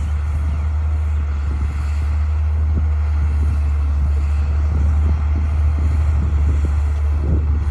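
D60 bulldozer's diesel engine running steadily, with a deep, even low hum.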